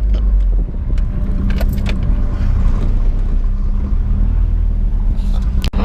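Truck engine running with a steady low rumble and hum, with a brief dropout near the end.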